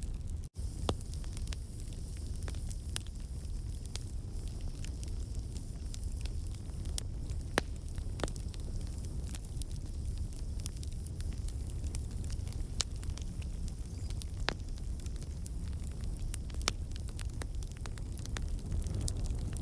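Log campfire burning: a steady low rumble with irregular sharp crackles and pops from the wood, a couple of them louder than the rest. The crackling comes from water and sap in the wood turning to steam and escaping.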